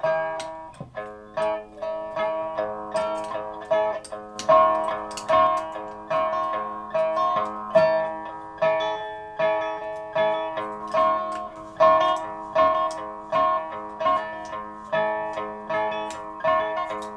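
Instrumental music on a plucked string instrument, notes plucked at about two a second over a steady low held tone.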